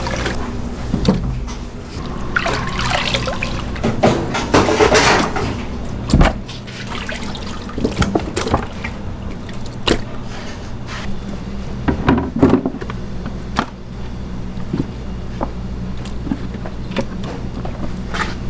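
Restaurant kitchen work: scattered clatter and knocks over a steady low machine hum, with a couple of longer rushing, splashing stretches.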